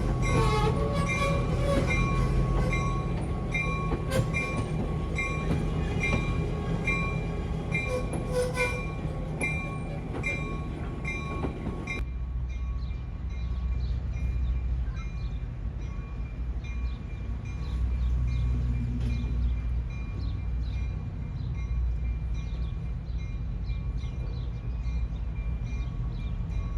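Train moving through a rail yard: a steady low rumble with a high ringing note that repeats about twice a second through the first half. About halfway through it changes abruptly to a quieter low rumble.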